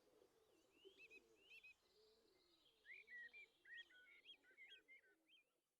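Faint bird chirping: short, hooked notes in quick runs, a few about a second in and a busier run starting about three seconds in.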